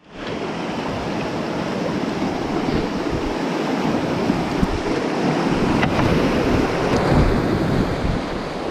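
Whitewater rapids rushing steadily, with wind buffeting the microphone and a few faint clicks.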